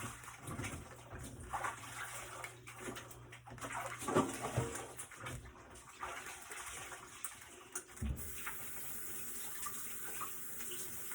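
Kitchen tap running as hands are washed under it, with a few light knocks; the flow gets louder about eight seconds in.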